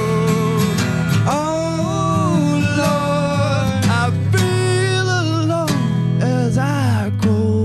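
Acoustic performance of an alternative pop-rock song: acoustic guitar playing under long, wavering sung notes that slide between pitches, with no clear words.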